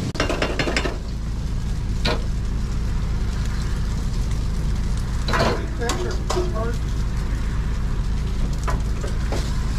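Food sizzling in hot oil on a food truck's cooking surface, over a steady low hum, with a few sharp utensil clicks.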